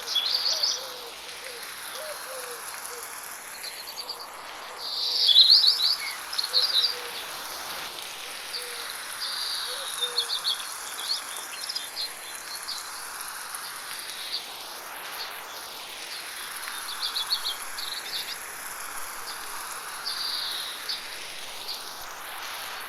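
Birds chirping and singing in short phrases over the steady hiss of light rain, with the loudest burst of song about five seconds in. The whole mix swirls from side to side with an 8D panning effect.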